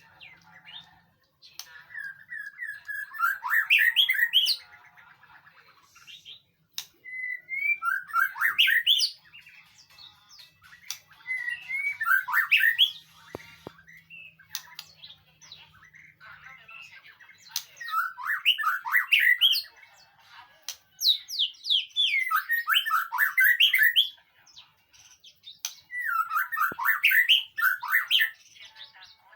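White-rumped shama singing: about six bursts of rapid, sweeping whistled and chattering notes, each a few seconds long, separated by short pauses.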